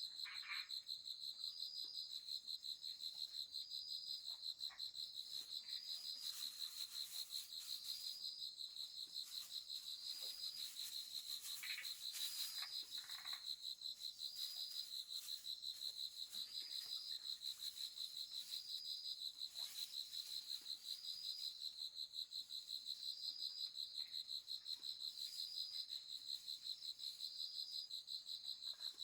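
Insect chorus: a steady, high-pitched, rapidly pulsing trill that runs without a break, with a few faint short calls now and then.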